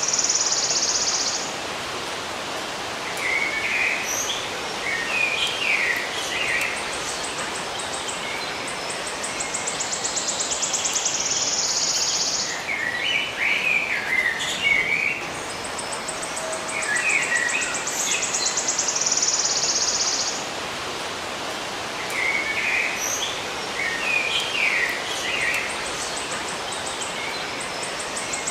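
Songbirds chirping in short bursts, with an insect's high pulsing buzz that swells and cuts off about every ten seconds, over a steady hiss of natural ambience.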